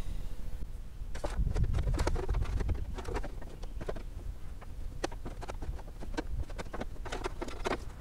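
Scattered light clicks and knocks of metal parts being handled as a car's wiper linkage assembly is put back together.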